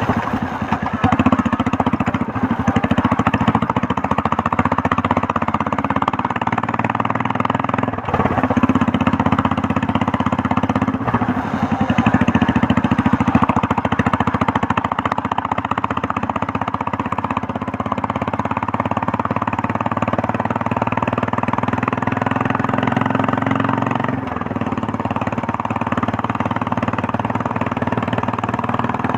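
Royal Enfield Meteor 350's single-cylinder engine running under way, its exhaust giving a steady, loud thumping beat; the note eases off briefly a few times, as with small throttle changes.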